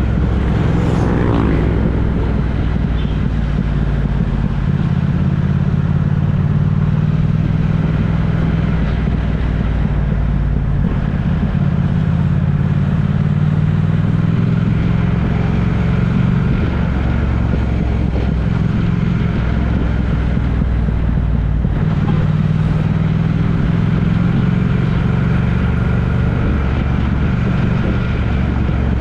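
A road vehicle's engine running steadily on the move, its low drone rising and falling gently with speed, over road noise. A brief gliding sound about a second in.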